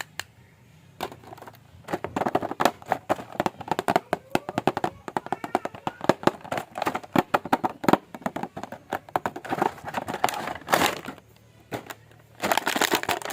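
Plastic toy packaging being handled and opened: rapid crinkling and clicking of plastic wrap and blister, in dense runs with a short pause near the end.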